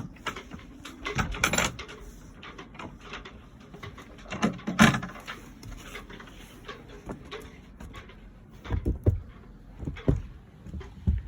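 A boat's hatch latch being worked: scattered clicks, knocks and clunks, with louder clunks about a second and a half in, near five seconds, and several more toward the end.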